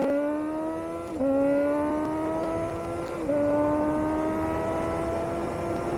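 Suzuki GSX-R600 inline-four running through a CS Racing aftermarket exhaust, accelerating through the gears. The engine pitch climbs steadily and drops sharply at each upshift, about a second in and again a little past three seconds.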